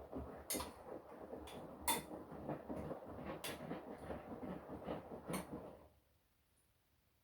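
Washing machine drum turning with laundry tumbling inside, with a few sharp clinks through the churning; the drum stops about six seconds in, a pause in the wash cycle's rotation.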